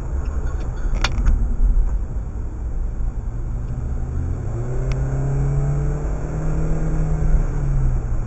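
Car engine running with steady road rumble. About four seconds in, the engine note rises as the car accelerates, holds, then drops back near the end. A couple of sharp clicks come about a second in.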